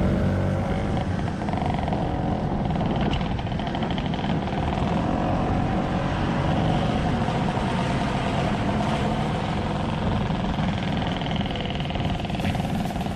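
Motor scooter engine running steadily on the move, its pitch wavering slightly with the throttle, over a low wind rumble.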